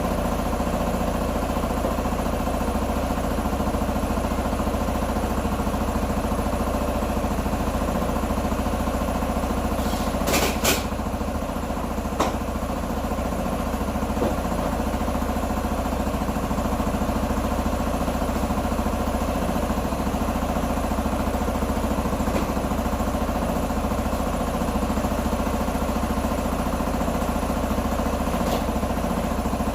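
Q2 125 motorcycle engine idling steadily, with a few short sharp clicks, the clearest about ten and twelve seconds in.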